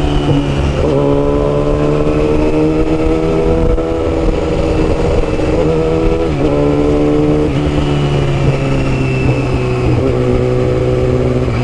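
Yamaha R6 inline-four with a custom exhaust running under way, its engine note rising and falling with throttle changes several times.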